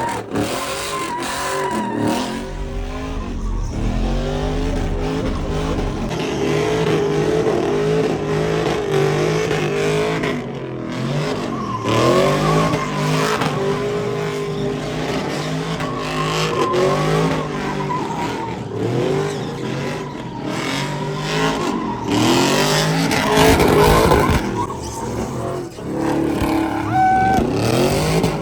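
A car engine revved hard again and again, its pitch sweeping up and down every second or two, with tyres squealing and spinning in a burnout.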